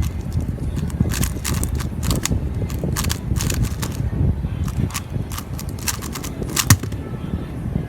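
X-Man Tornado V2 M speedcube being turned fast: quick, irregular clicks of its plastic layers snapping through turns, several a second, over a steady low rumble, with one louder knock near the end.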